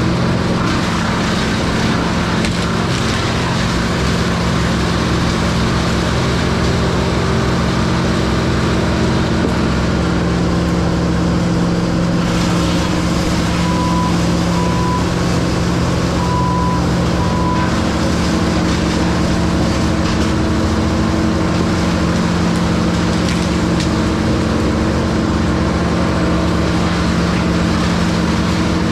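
A heavy-equipment engine running at a steady speed. Four short high beeps sound about halfway through.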